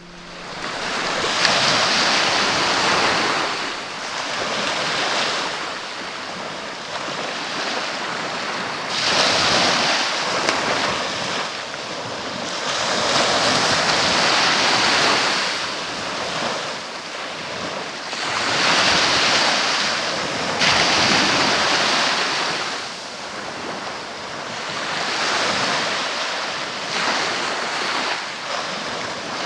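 Sea waves breaking and washing in one after another, each surge swelling and fading every four to six seconds.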